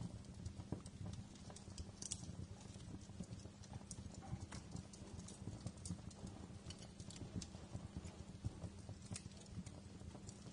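Wood fire in a fireplace crackling, with frequent irregular pops and snaps over a low steady rumble of the flames.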